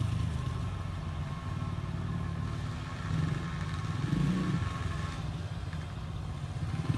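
Small dirt bike engine running as the bike rides around the track, with a brief rise in revs about four seconds in.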